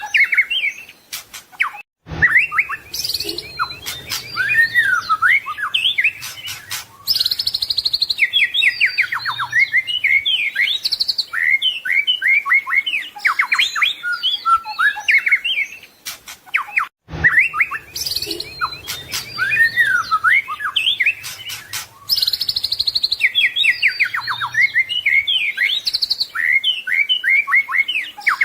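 White-rumped shama (murai batu) singing a fast, varied song full of mimicked phrases: whistles, trills and chatters. There are brief silent breaks about two seconds in and again about seventeen seconds in, and after each one the same passage of song starts over.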